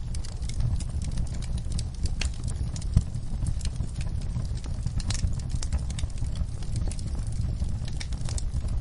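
Wood fire burning in a fireplace, crackling with irregular sharp pops over a steady low rumble of the flames; one pop about three seconds in is louder than the rest.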